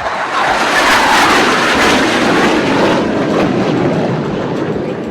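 Surya Kiran team's BAE Hawk jet trainers passing low overhead. The loud jet noise swells quickly, then drops in pitch and slowly fades as they go by.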